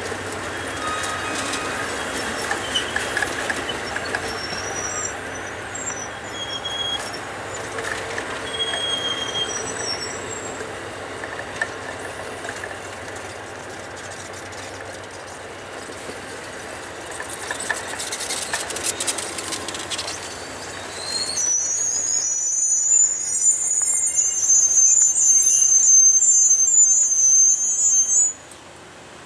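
Railroad cars rolling past with a steady rumble and short high wheel squeals, then a loud, sustained high-pitched wheel squeal of several tones that cuts off suddenly near the end.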